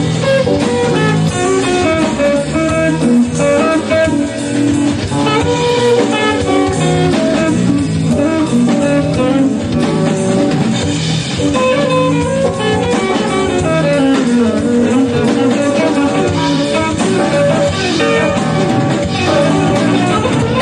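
A live band playing instrumental jazz-blues: a guitar runs a fast melodic lead line over bass and drum kit.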